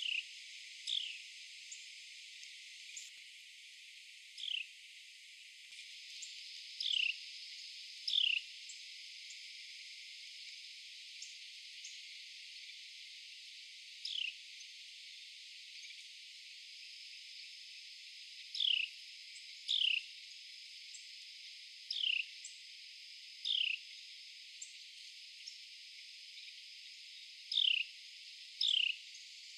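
Carolina wren giving short down-slurred call notes at irregular intervals, about a dozen, often in pairs about a second apart, over a steady high hiss.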